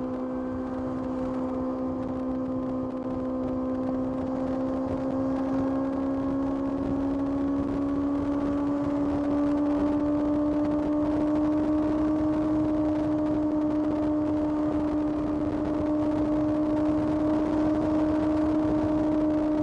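Kawasaki ZX-6R's 636 cc inline-four engine pulling steadily under way, its note climbing slowly for about the first ten seconds and then holding at a steady pitch, with road and wind noise beneath.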